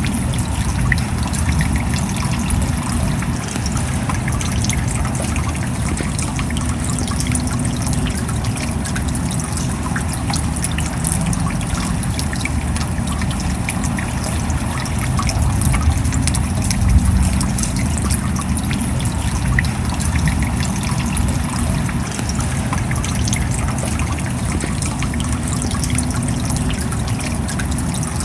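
Steady rain: a dense patter of drops over an even wash of water noise, with trickling runoff and a heavy low rumble.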